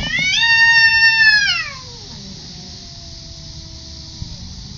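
A cat's long, loud yowl that holds its pitch for about a second and a half and then slides down and fades. A fainter, lower drawn-out cry follows.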